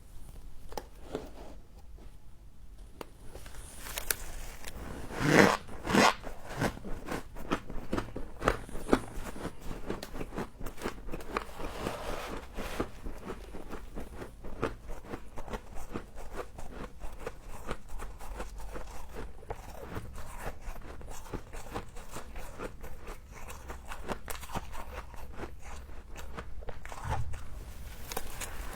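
Frost being bitten and chewed close to the microphone: dense, rapid crunching throughout, with two louder bites about five and six seconds in.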